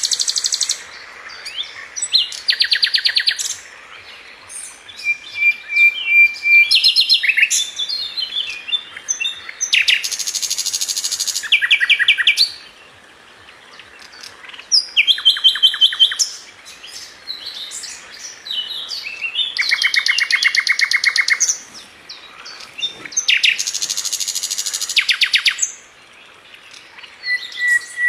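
Songbird sold as 'sikatan London', a flycatcher, singing in phrases. Each phrase is a rapid, rattling trill lasting a second or two, and between them come scattered chirps and a couple of short, steady whistled notes.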